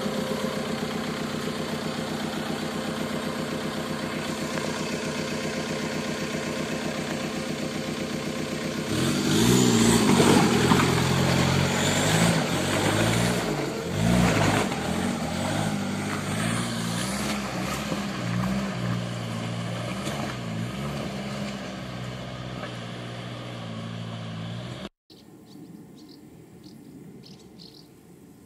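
Suzuki Samurai's engine running at steady revs as it crawls through mud, then revving up and down repeatedly as it climbs, loudest about nine to eleven seconds in. Near the end the engine sound cuts off abruptly, leaving a much quieter background with faint high chirping.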